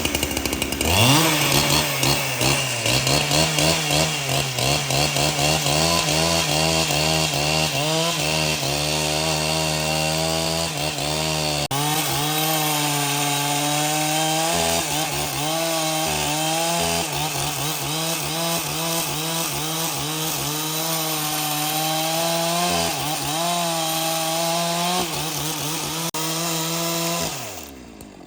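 Chainsaw running at high speed and cutting through wood, the motor note wavering as the chain bites under load. It winds down about a second before the end.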